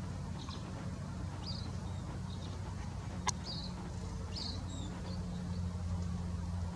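A few short, high bird chirps over a steady low hum, with one sharp click about three seconds in.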